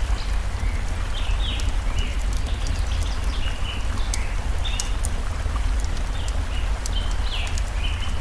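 Forest stream flowing steadily with a deep rush, with the sharp pops of a crackling wood fire and a small bird repeating short high chirps about once a second.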